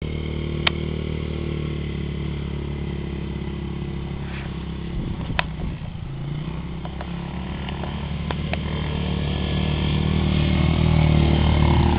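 Small single-cylinder pit-bike engine running steadily, getting louder over the last few seconds, with a few sharp clicks.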